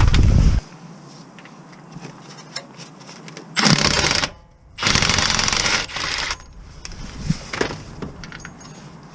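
Workshop tool noise: two loud bursts of rapid mechanical rattling, the first short and the second about a second and a half long, with light clicks and knocks between.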